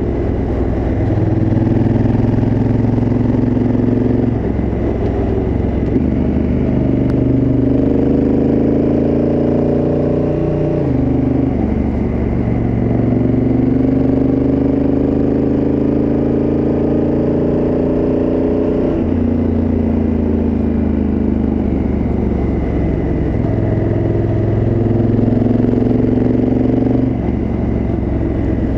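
Honda Africa Twin CRF1000L's parallel-twin engine running through its stock exhaust while riding. The engine note climbs and falls, with several sudden drops in pitch.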